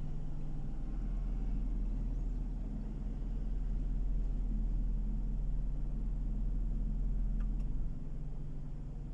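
Car driving on the road, heard from inside: a steady low rumble of engine and road noise that eases slightly near the end.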